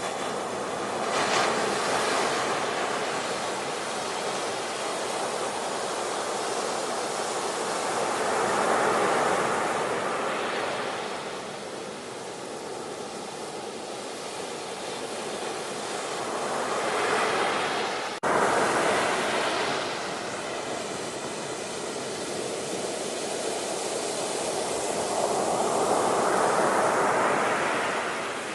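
Ocean surf: waves breaking and washing in, swelling and fading in slow surges about every eight seconds, with an abrupt jump in the sound a little past halfway.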